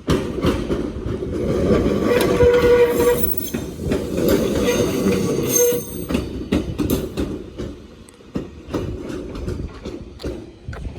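Train running past close by on the track: loud rushing rail noise with wheels clattering over rail joints, a brief steady tone about two seconds in, then fading away after about six seconds.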